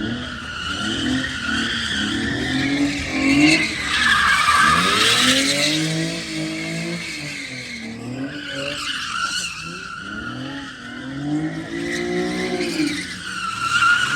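A car engine revving up and down over and over while the tyres squeal and skid, as in drifting or donuts. The tyre noise peaks about four seconds in.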